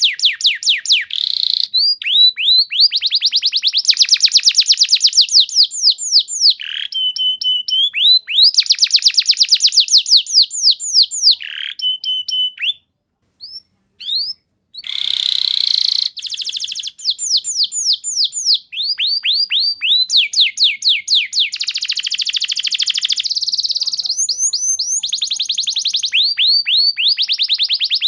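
Canary in full, long-running song: rapid trills of repeated falling notes, with a few held whistled notes and a short break about 13 seconds in.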